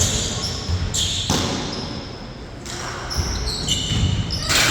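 A basketball bouncing on a court during a game, with a few low thumps and short high squeaks from sneakers on the floor.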